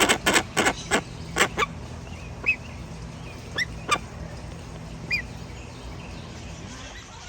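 Grey-winged trumpeter giving a quick run of short loud calls, about three a second, which stops about a second and a half in. A few single calls and small chirps follow, over a steady low hum.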